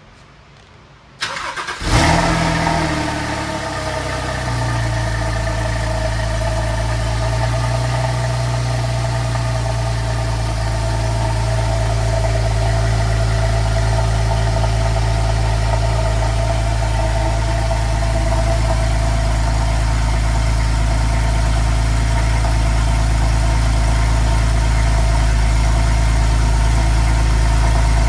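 Porsche 911 Carrera 4S flat-six cold start. The starter cranks briefly about a second in, the engine catches with a loud flare, then settles within a couple of seconds into a steady fast cold idle.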